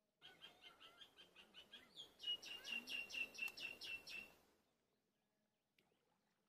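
A bird calling a rapid series of short, repeated high notes, about five a second, growing louder about halfway through and stopping about four seconds in.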